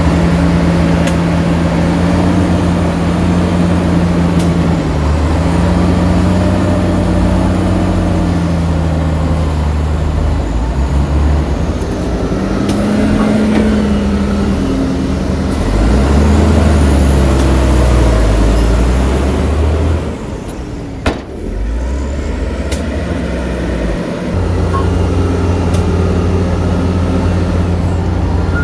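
Heavy diesel engines of earthmoving machinery working, revving up and down under load. Around two-thirds of the way through, the engine noise drops for a few seconds and a single sharp knock is heard.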